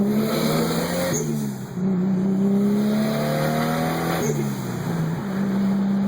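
Toyota Supra's single-turbo 2JZ straight-six accelerating hard through the gears: engine pitch climbs, drops at an upshift about a second in, climbs again and drops at a second upshift about four seconds in, then holds steady. A short high hiss comes at each shift.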